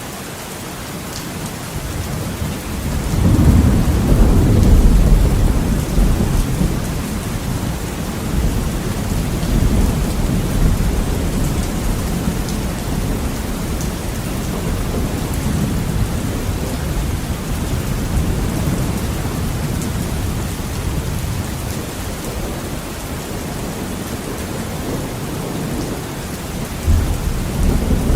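Heavy rain on a window with rolling thunder. A deep rumble swells about three seconds in, peaks, then slowly dies away under the steady rain, and another rumble begins near the end.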